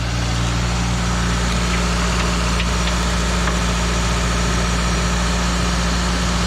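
Steady low mechanical drone, like a motor or engine running at idle, with a few faint light clicks.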